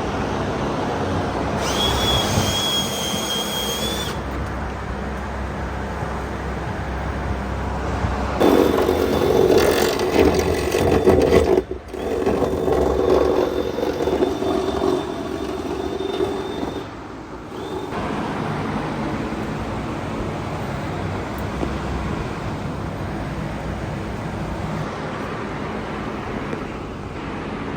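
Auto repair shop noise: a steady mechanical hum, with power tools whirring and a thin high whine early on. It turns louder and busier for several seconds about a third of the way in.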